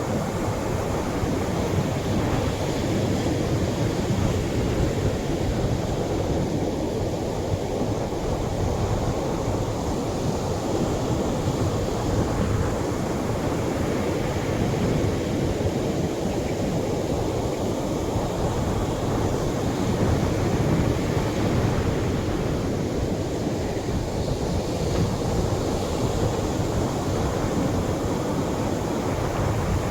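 Atlantic surf breaking on a sandy beach: a continuous, even wash of wave noise, mostly low rumble, with no single crash standing out.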